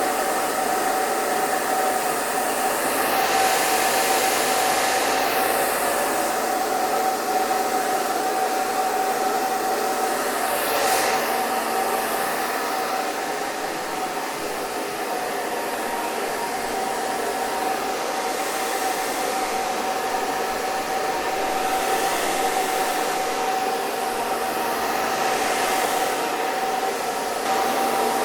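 Hair dryer running continuously: a steady rushing blow with a steady whine, the high hiss now and then sweeping down and back up in pitch.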